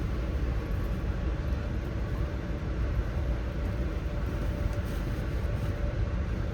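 Steady low rumble of a moving Amtrak passenger train, heard from on board.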